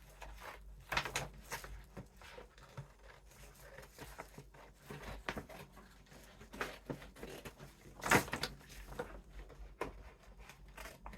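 A paper gift bag being handled and cut apart, giving irregular rustling, crinkling and clicking, with a few louder crackles.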